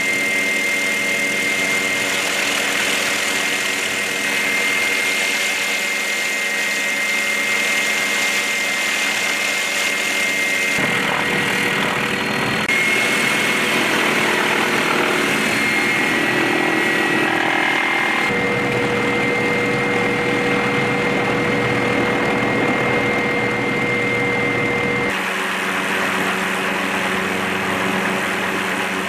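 Helicopter turbine engine running with a steady high whine and a low drone. The sound changes abruptly several times, as one stretch of engine noise is cut to another.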